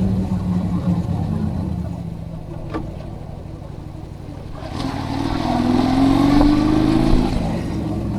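Motorcycle engine heard from the rider's helmet: it eases off and quietens through the middle, then comes back on throttle with its pitch rising as the bike accelerates, before settling.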